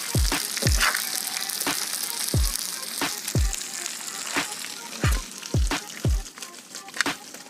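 Sea crabs sizzling in hot oil on a flat iron tava, the sizzle strongest in the first half and dying down after. Background music with a deep booming beat runs underneath.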